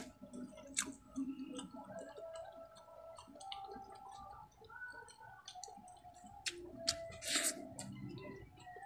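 Close-up mukbang eating sounds: chewing with many small wet mouth clicks and smacks, and squishes of rice and squid adobo being worked by hand. One longer, louder wet mouth sound comes near the end.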